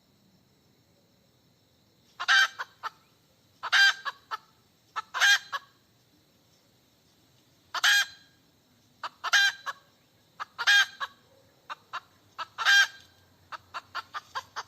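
Hen cackling: seven loud, drawn-out squawks about a second and a half apart, each followed by short clucks, ending in a quick run of short clucks.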